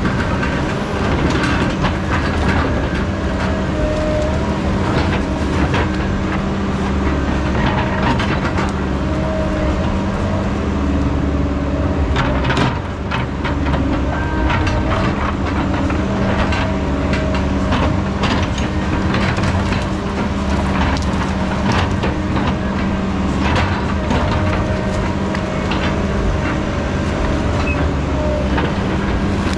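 Heavy diesel logging equipment running steadily, with frequent irregular knocks and cracks over the engine.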